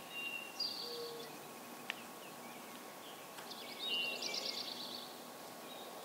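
Wild songbirds singing in the background: short whistled phrases and a louder buzzy trill about three and a half seconds in. A single sharp tick comes just before the two-second mark.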